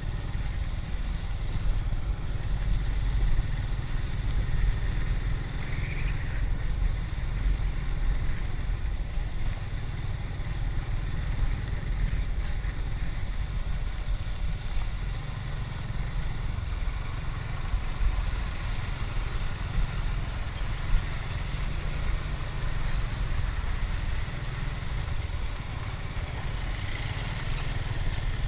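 Motorcycle riding at steady road speed, its engine mostly buried under a constant low wind rumble on the microphone. One sharp click about three-quarters of the way through.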